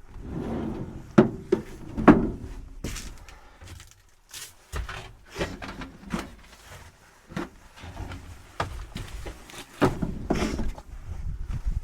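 Irregular knocks, clunks and rustling of objects being handled, with the loudest knocks about a second and two seconds in and again near the end.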